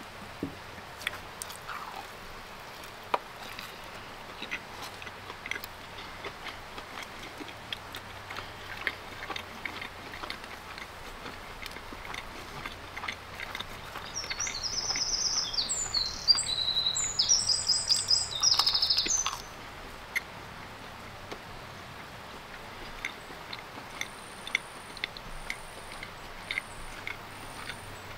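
Close-miked chewing of pizza, with small wet clicks and crunches scattered through. Midway a songbird sings a run of high, trilled phrases for about five seconds, the loudest sound. Near the end come short, very high peeps, about one a second.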